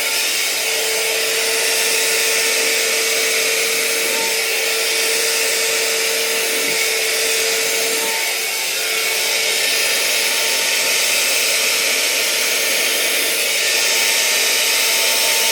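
Electric hairdryer running steadily, a loud whoosh of air with a constant motor whine, blowing wet acrylic paint across a canvas. The level dips slightly about halfway through and rises again near the end.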